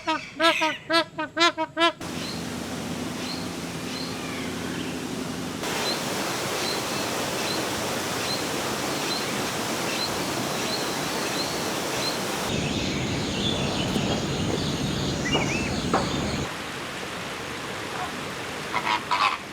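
Birds calling and chirping over a steady rushing noise like falling water. A quick run of loud repeated calls comes at the very start, and faint high chirps repeat about twice a second in the middle. The background changes abruptly several times.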